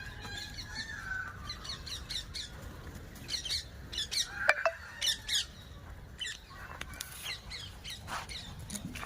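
Birds chirping and squawking in many short, high calls, the loudest a little past the middle, over a low steady hum.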